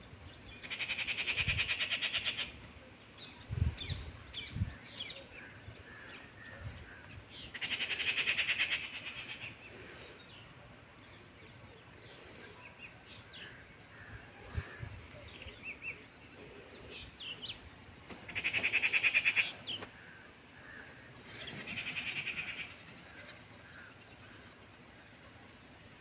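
Birds singing: four rapid trilled phrases of a second or two each, coming at irregular intervals, with scattered short chirps in between.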